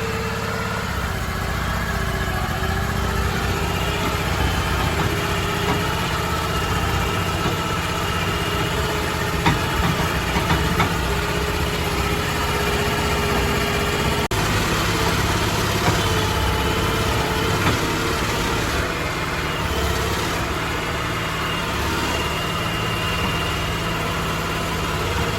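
Crawfish boat's engine running steadily at idle, with thin whining tones above the low hum.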